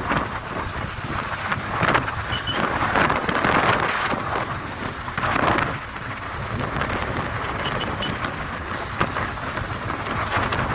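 Wind rushing over the microphone of a moving motorcycle, with rumble underneath and gusts swelling a few times.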